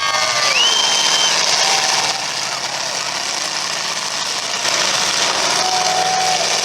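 Engines of demolition derby cars running over a steady noisy din, with a brief high whistle about half a second in.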